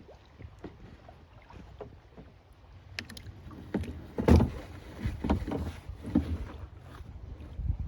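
Kayak paddling: irregular paddle splashes and knocks on the hull over a low rumble, the loudest stroke a little over four seconds in.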